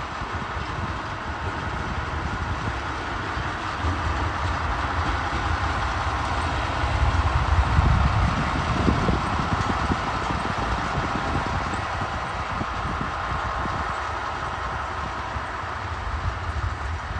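SM42 diesel shunting locomotive running, its diesel engine rumbling steadily. The rumble grows louder to a peak about eight seconds in, then eases.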